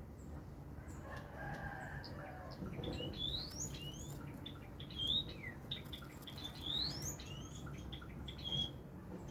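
Munia (emprit) singing a rolling run of high, rising, sweeping chirps and short twitters, a song filled with learned canary phrases. The chirps come mostly in the second half.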